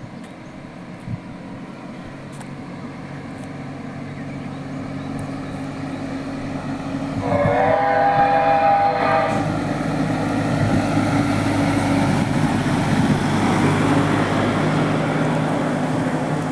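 Train approaching and running past, its noise growing steadily louder. About seven seconds in, a pitched tone of several notes sounds for about two seconds, and then the train passes loudly with a steady low hum.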